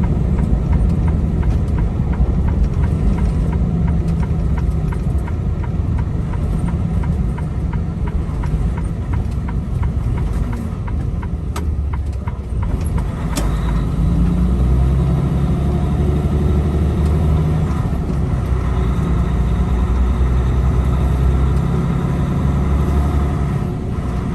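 Semi-truck diesel engine running at low speed, its note shifting a few times as the engine speed changes, with a couple of sharp clicks about halfway through.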